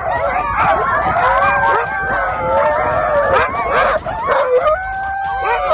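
A crowd of sled dogs, Alaska husky and Greenland dog crosses, howling and yelping together, many voices overlapping without a break.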